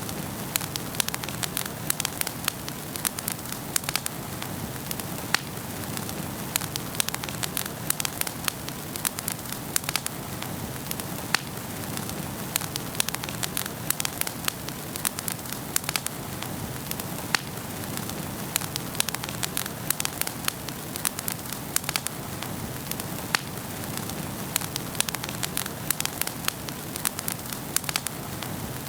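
Wood fire burning in a fireplace, with steady hiss and frequent sharp, irregular crackles and pops of burning logs.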